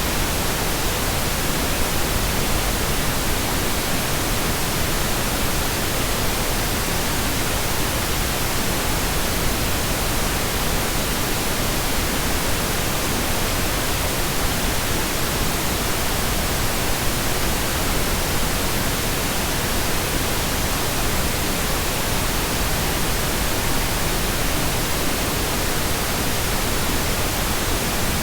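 Steady pink noise: an even, unchanging hiss spread across the whole range from deep to high.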